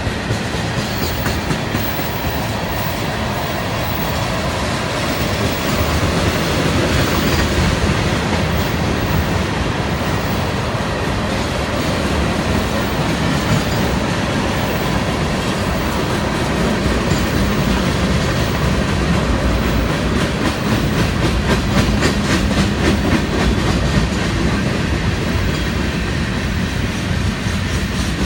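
Florida East Coast Railway freight cars rolling past close by: a loud, steady rumble of steel wheels on rail, with a regular clickety-clack of wheels over rail joints that grows more distinct in the second half.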